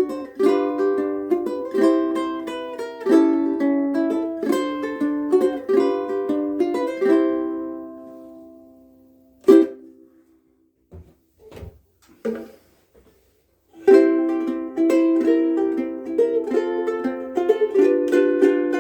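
KoAloha ukulele playing a tune; the playing stops and rings out about eight seconds in, followed by a single strum. After a few soft knocks, playing starts again about fourteen seconds in.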